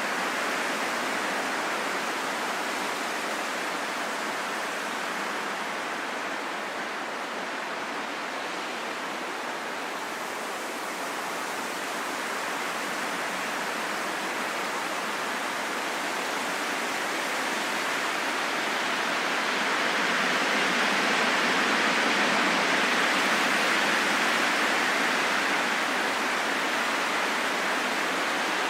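Steady wind, a continuous rushing hiss with no whistling tone, that dips slightly and then swells about two-thirds of the way through before easing again.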